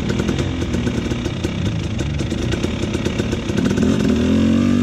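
Dirt bike engine running while riding, rising in revs and getting louder near the end.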